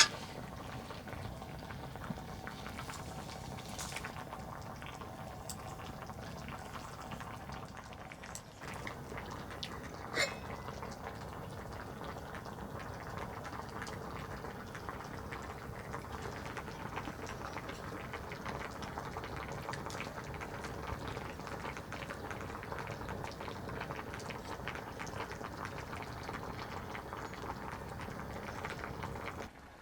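Liquid bubbling steadily at a boil in a cooking pot, with a sharp metal clink at the start and another about ten seconds in.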